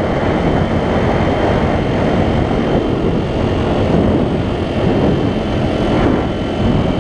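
Loud, steady wind rumble on a helmet-mounted action camera riding a dual-sport motorcycle, with the bike's engine running underneath.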